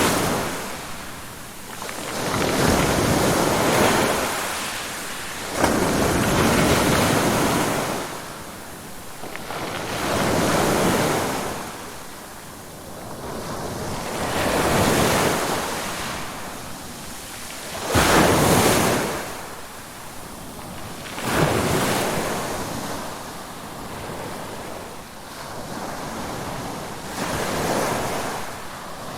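Ocean waves: surf surging in and fading away again and again, about every three to four seconds, the loudest surges near the start and about eighteen seconds in.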